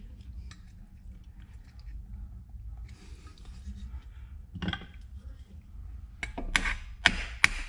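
Sharp metal-on-metal taps as a pin is knocked into place through a spring. There are a few faint clicks at first, then about six seconds in comes a quick run of loud clinking taps, several a second.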